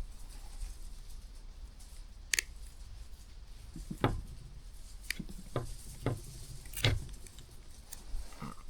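A few light, separate clicks and taps from hand work on a small engine's plastic recoil starter while its old pull cord is being cut and cleared, about six over several seconds, one sharper click a couple of seconds in.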